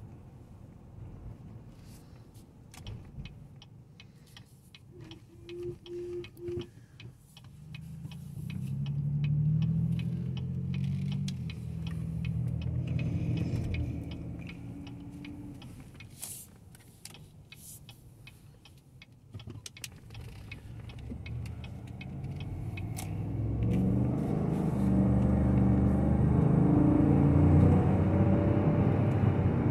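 2018 GMC Yukon Denali's 6.2-litre V8 and road noise heard from inside the cabin while driving: the sound swells as the truck pulls away about eight seconds in, eases off, then builds again and holds for the last part. Scattered light clicks and knocks are heard throughout.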